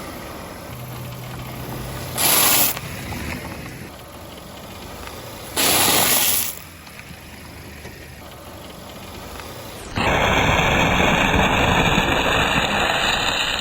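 Chocolate wafers crushed under a car tyre: two short crunches a few seconds apart. About ten seconds in, a louder steady rushing noise follows.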